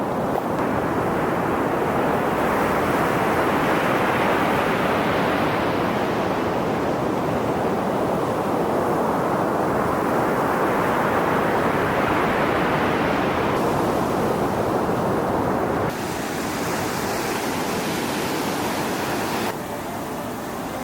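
Ocean surf washing in, the hiss swelling and fading slowly, with wind buffeting the microphone. The level drops abruptly twice near the end.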